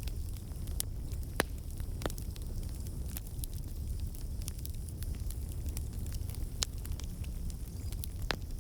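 Campfire burning: a steady low rumble of flames with irregular crackling and popping from the burning wood, and a few sharper pops standing out.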